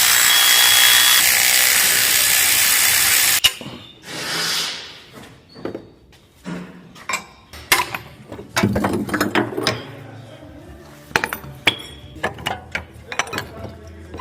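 Mechanic's tools at work on a transmission job. A pneumatic tool runs with a loud hiss and a faint whine for about three and a half seconds, then stops sharply. A short whoosh follows, then scattered metallic clinks and knocks of tools and parts.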